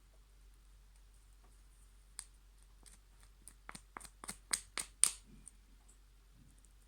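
Slime being mixed: about ten sharp clicks and pops, coming closer together and loudest about five seconds in.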